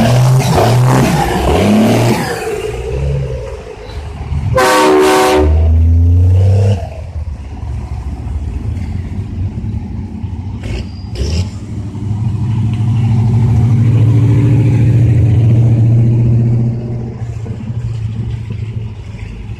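Trucks driving past with their engines running. One blows a loud horn blast about five seconds in, and another truck's engine swells louder as it passes later on.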